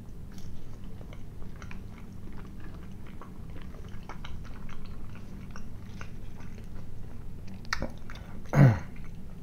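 Close-up mouth sounds of a person biting into and chewing a sausage with mustard: soft wet chewing with many small irregular clicks. Near the end there is one short, loud voice sound falling in pitch.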